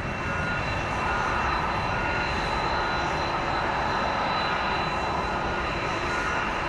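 Jet airliner engines running steadily: an even rush of noise with a high, steady whine over it.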